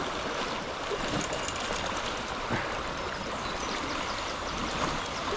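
Fast-flowing river water rushing steadily, with a few faint ticks.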